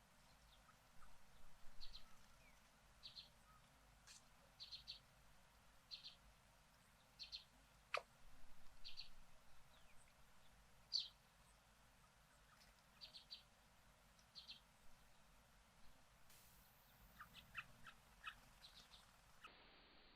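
Faint, short high chirps from a small bird, repeated about once a second, with a quicker run of chirps near the end. A single sharp click sounds about eight seconds in.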